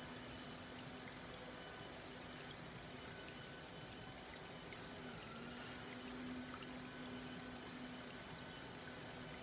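Small woodland stream flowing gently, a steady soft babble of water, with a faint steady hum underneath.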